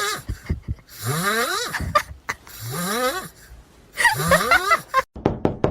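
An animal giving a call over and over, each call rising in pitch, about a second and a half apart. A few sharp knocks follow near the end.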